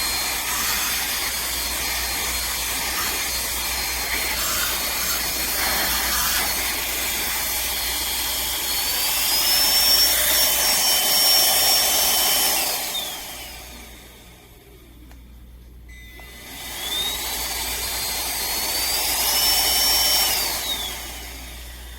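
Cordless handheld vacuum motor running with a whine. About nine seconds in it rises to a higher pitch, as when switched into its higher-power mode, then winds down as it is switched off. It starts again a few seconds later, climbs in pitch once more and winds down near the end.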